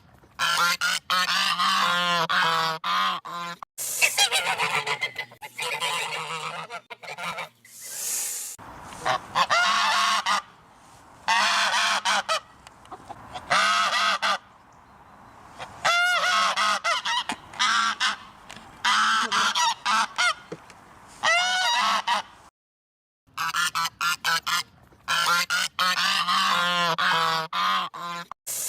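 Geese honking over and over in quick, overlapping bursts, with a brief break about three-quarters of the way through.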